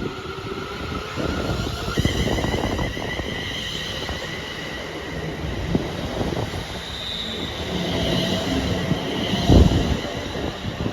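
ScotRail Class 380 electric multiple unit running through the station, its wheels squealing on the rails in several steady high tones over a continuous rumble. A single low thump comes about nine and a half seconds in.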